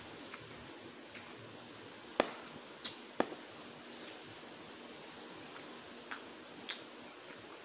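Close-up eating sounds: a metal fork clicks sharply against the plate a few times, loudest about two and three seconds in, with small mouth and chewing noises over a steady hiss.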